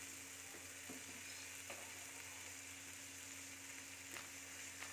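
Spice paste of garlic, ginger, onion and mustard frying in oil in a non-stick pan with a soft, steady sizzle, stirred with a silicone spatula that scrapes faintly against the pan a few times. This is the masala being fried down before the meat goes in.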